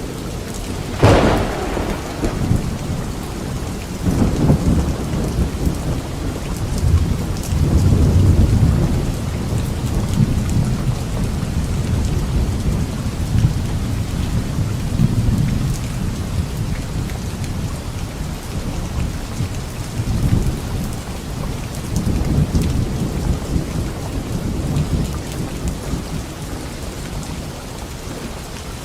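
Thunderstorm: steady rain with a sharp thunder crack about a second in, then long low rolls of thunder that swell and fade several times.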